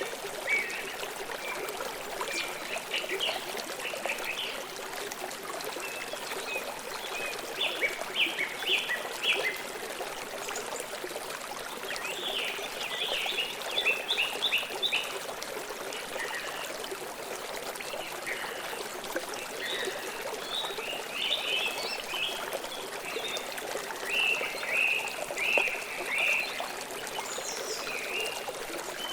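Water of a stream or small river flowing steadily, with a bird chirping in quick runs of short high notes every few seconds.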